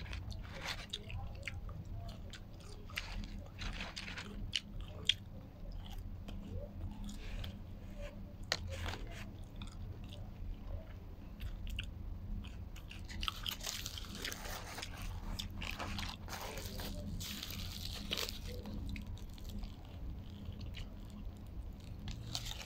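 Close-up mouth sounds of eating a shawarma wrap: chewing and biting with many small wet clicks. Partway through, a denser rustle joins in, fitting the crinkling of the wrap's foil and paper.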